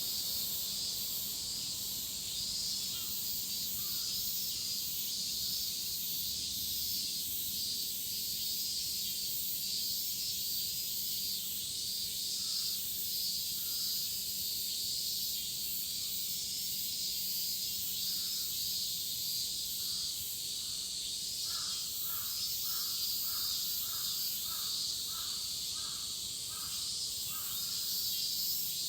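Dense chorus of cicadas: a steady, high-pitched shrill. Crows caw now and then over it, and about three-quarters of the way in a crow gives a run of about a dozen quick caws.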